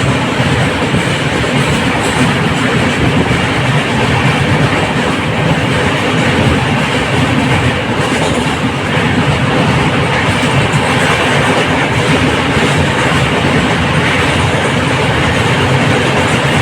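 Running noise of a moving express train heard on board an LHB passenger coach: a steady rumble and rattle of the wheels on the rails.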